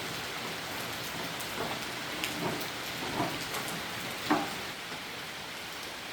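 Steady rain pouring during a storm, with a few short knocks, the loudest about four seconds in.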